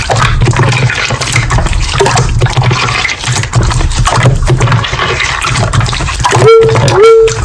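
Wet, squishy slime being handled, a dense crackling squelch. Near the end, short repeated electronic notes that slide up and then hold start sounding over it.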